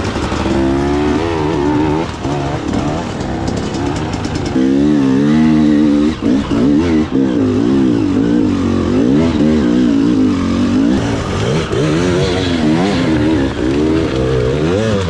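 Dirt bike engine running hard under a rider's throttle, its pitch rising and falling over and over, about once a second, with a sharp rev a little over four seconds in.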